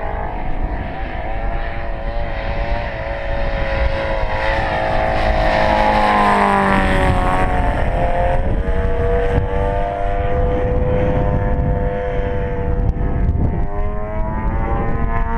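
111cc gas engine of a radio-controlled Sbach aerobatic plane running in flight. Its pitch climbs and sags as it manoeuvres and drops steeply about halfway through as it passes.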